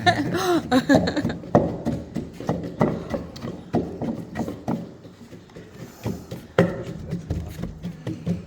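Repeated pounding of a pestle in a mortar, grinding ingredients for elephant medicine balls: short dull knocks at about two a second, pausing briefly about two-thirds of the way through.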